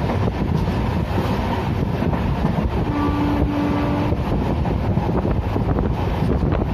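Passenger train running on the rails, a steady rumble with wind buffeting the microphone. A short steady tone sounds for about a second, about three seconds in.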